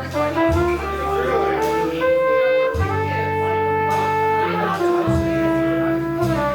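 Live jazz band playing: a bass holding long low notes that change about every two seconds, under a melody line of single pitched notes.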